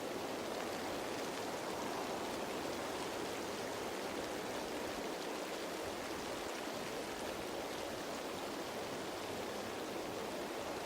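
Rain falling on leaves: a steady, even hiss of many drops, without pauses or changes.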